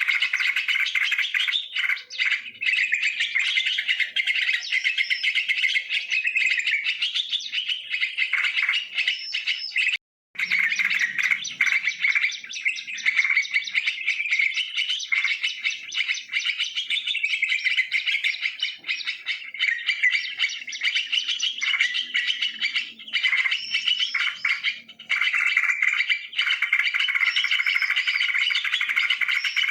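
Yellow-vented bulbuls (trucukan) calling: a dense, nearly unbroken chorus of bubbly chattering notes, with a brief break about ten seconds in.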